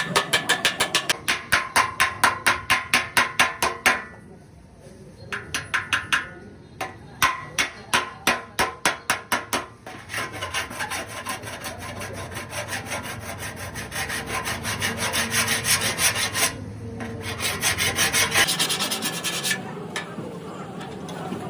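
Quick back-and-forth abrasive strokes worked by hand on a car body panel, about four strokes a second, stopping briefly a few times and starting again.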